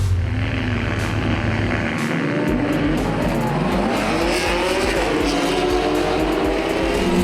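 Production race cars' engines at full throttle, several at once, one rising in pitch as it accelerates about halfway through while others drop as they shift or lift.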